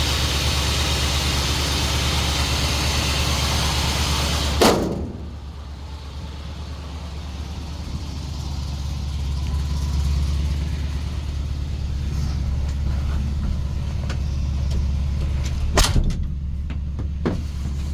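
Dodge 440 big-block V8 idling with a steady low hum. For the first few seconds a loud hiss rides on top of it. About a third of the way in a sharp thump comes, after which the engine sounds more muffled, and a sharp click comes near the end.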